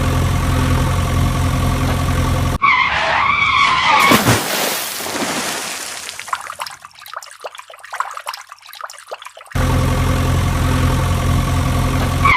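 Steady vehicle engine sound, broken about two and a half seconds in by a wavering skid squeal and then several seconds of crackling hiss, before the engine sound returns near the end.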